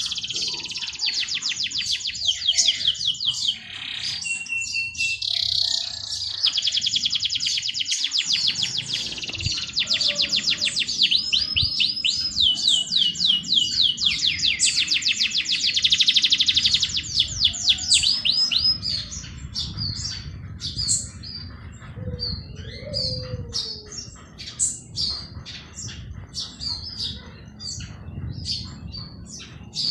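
Small songbirds chirping: dense, fast runs of high chirps for most of the time, thinning out to scattered single chirps near the end, over a low, steady rumble.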